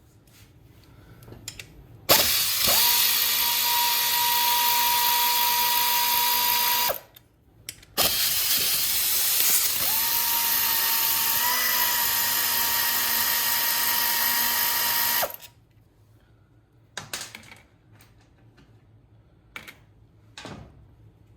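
Hand-held power tool run in two long bursts, about five and seven seconds, used in taking apart a GY6 150cc engine. Each burst spins up quickly to a steady whine over a loud hiss and stops abruptly. Light tool clicks come between and after.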